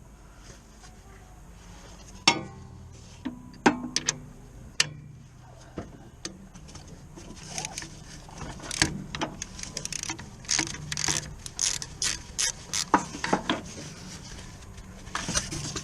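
Socket ratchet clicking in quick runs as fasteners are worked on, with sharp metal tool knocks and clanks, a few of them ringing, in the first few seconds.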